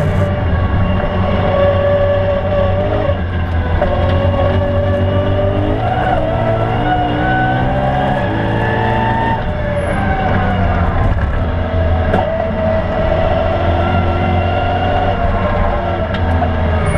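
BMW E92 M3's 4.0-litre V8 engine heard from inside the cabin on track. The engine note climbs through the revs from about six to nine seconds in, then falls away, with road and tyre noise throughout.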